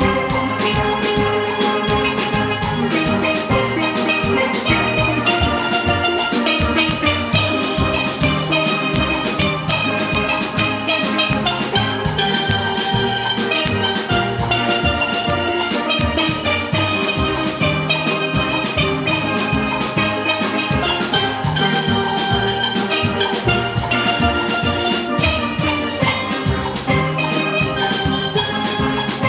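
Steel orchestra playing: many steelpans sound melody and chords in fast repeated notes over a steady drum-kit beat.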